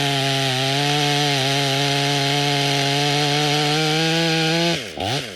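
Stihl MS 500i fuel-injected two-stroke chainsaw running at high revs with a steady, loud note. Near the end the revs fall away quickly, rise and fall once more briefly, and the engine drops back to a quieter idle.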